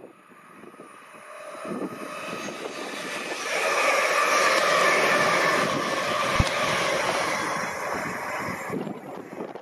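A large vehicle passing by: a steady rushing sound with a faint hum in it that builds over a few seconds, holds loudest in the middle, and fades away near the end.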